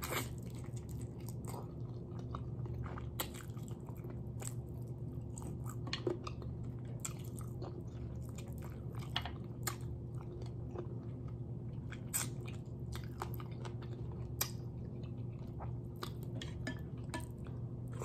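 Close-up chewing and sucking on tender adobo chicken feet eaten by hand: small wet smacks and crunches scattered throughout, over a steady low hum.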